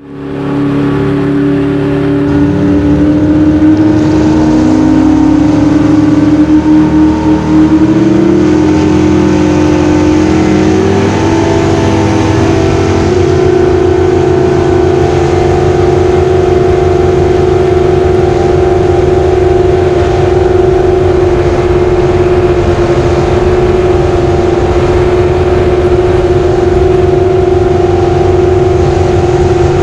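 Racing jet boat engine running hard at high revs: its pitch climbs over the first several seconds, wavers briefly, then holds steady.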